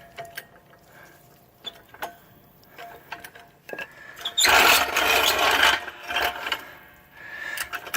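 Metal jack being shifted into position under a truck: scattered clicks and knocks, then a loud scraping rattle lasting over a second about halfway through, followed by a few smaller knocks.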